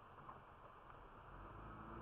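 Near silence: faint steady hiss with a low rumble slowly building toward the end.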